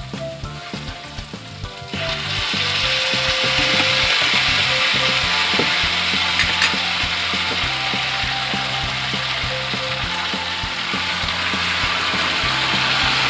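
Chicken feet frying in hot oil with sautéed aromatics in a wok. A light crackle jumps about two seconds in to a loud, steady sizzle as the raw feet hit the oil.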